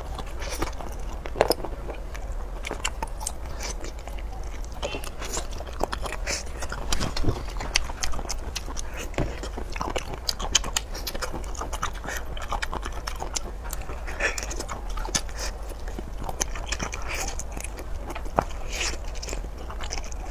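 Close-miked eating sounds: a person biting and chewing, with irregular sharp mouth clicks throughout over a steady low hum.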